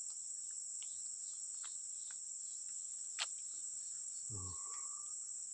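A steady, high-pitched chorus of insects, crickets by their sound, with a single sharp click about three seconds in.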